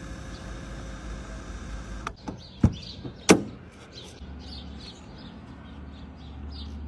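A steady vehicle hum, then a click and two loud, sharp thuds a little under a second apart near the middle. Small birds chirp repeatedly after that over a low hum.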